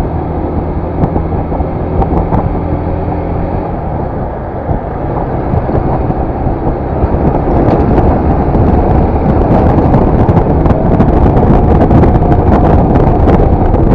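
Yamaha FZS V3's single-cylinder engine running steadily on the move, then a louder rush of wind and road noise takes over from about halfway, with scattered clicks.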